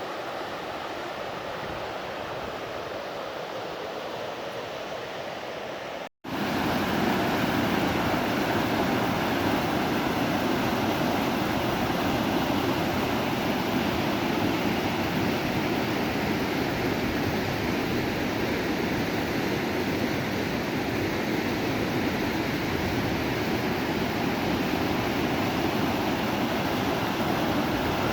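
River water flowing steadily. The sound cuts out for a moment about six seconds in and comes back louder.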